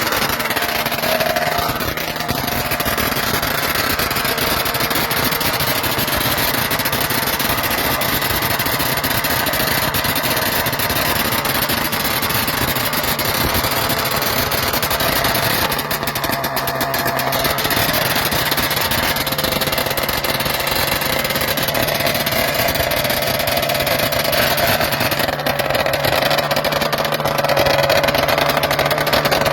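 A Morbidelli Grand Prix racing motorcycle's small two-stroke engine running loudly, its pitch shifting up and down as it is revved.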